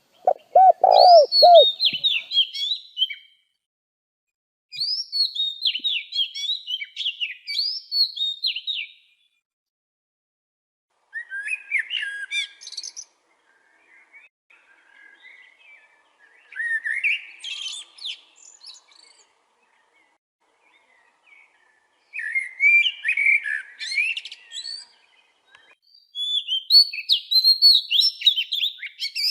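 A songbird singing in short, high, twittering phrases, about six of them, each a few seconds long with pauses between. A dove coos once at the very start.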